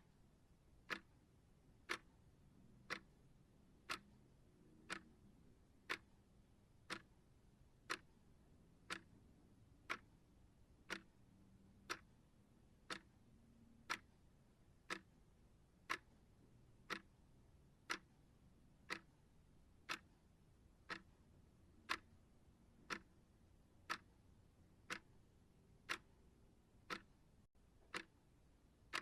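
Timer ticking steadily, one sharp tick each second.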